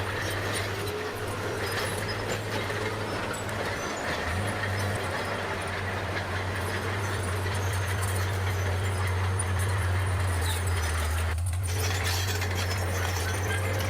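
Bulldozer's diesel engine running steadily with a deep drone, over the clanking of steel tracks and pushed earth.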